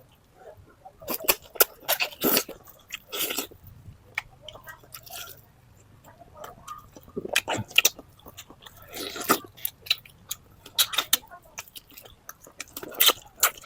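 Close-up mouth sounds of a person eating native chicken tinola: chewing and biting as irregular clicks and smacks, with a few longer noisy sounds in between.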